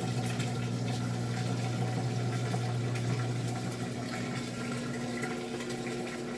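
Maytag top-load washer's drain pump running steadily during the drain cycle: a steady hum with water rushing through.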